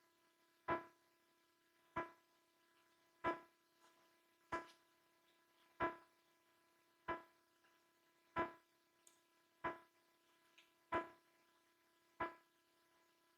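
Faint, sharp ticks repeating at a perfectly even pace, about one every 1.3 seconds, over a low steady hum.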